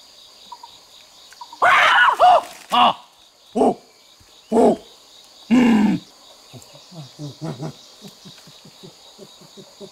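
An animal calling: five loud pitched calls about a second apart, then a rapid stuttering run of short, quieter low calls, over a steady high buzz of insects.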